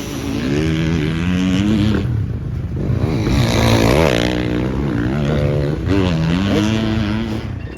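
Dirt bike engine revving up and down as it is ridden, the pitch rising and dropping with throttle and gear changes.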